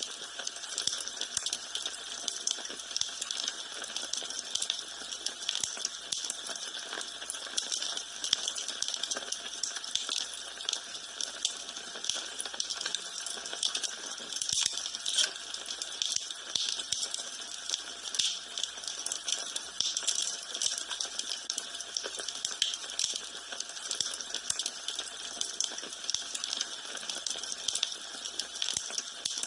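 Wood fire burning in a fireplace, crackling steadily with a continual run of small snaps and pops over a soft hiss.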